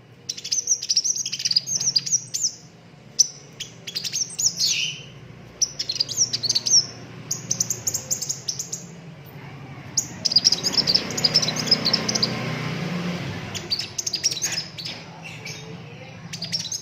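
Sunbird singing hard: bursts of rapid, high-pitched chirps and trills, several in a row, over a low steady hum.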